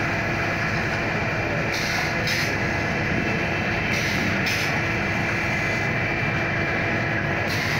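Stamping machine running steadily, with a pair of short hissing bursts repeating every two to three seconds.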